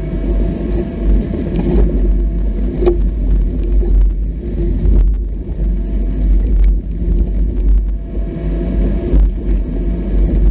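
Off-road vehicle driving a rough trail: a steady low engine and drivetrain rumble, with scattered knocks and rattles.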